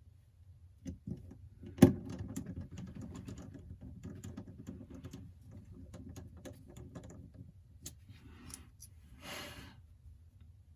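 Small sharp clicks and ticks of a precision screwdriver and tiny metal parts being handled on a phone repair bench, with one louder click about two seconds in. A short hiss near the end.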